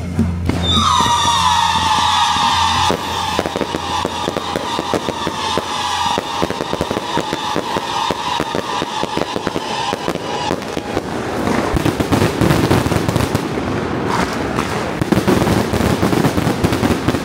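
Fireworks and firecrackers going off in a dense, continuous crackle. For the first ten seconds or so a long high tone, falling slightly in pitch, sounds over the crackle.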